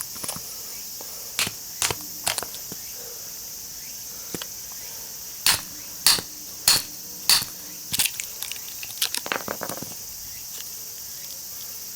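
Sharp clicks and knocks of the metal parts of a small scrap transformer being handled and worked: a few separate clicks, then four strong knocks about half a second apart, then a quicker run of lighter clicks.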